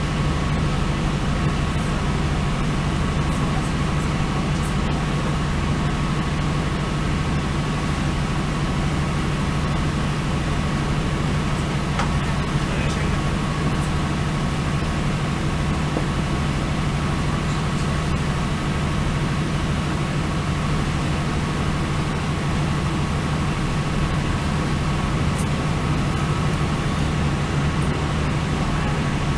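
Steady running noise of a Northern Ireland Railways diesel multiple unit: a constant low drone and hum with a thin whine above it and a few faint ticks.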